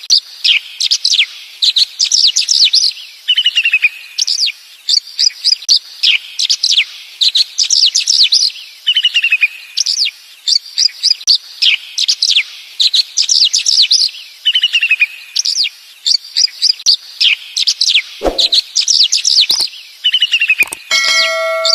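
Small birds chirping in fast, high, down-slurred notes, with a lower trilled phrase coming back about every six seconds. Two sharp knocks come near the end, and a steady pitched tone starts just before the end.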